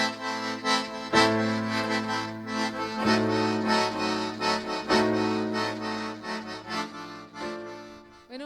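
Accordion music: held chords over a steady bass, changing about every two seconds, fading out near the end.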